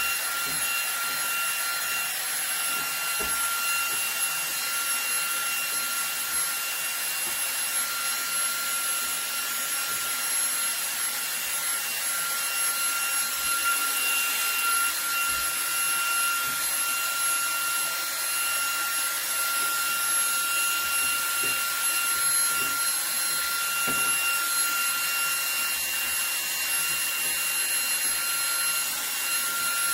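Cordless stick vacuum running on max power, a steady rushing hiss with a high motor whine, as its nozzle cleans out a bathroom exhaust fan vent. A few light knocks come through, once near the start and again about two-thirds of the way in.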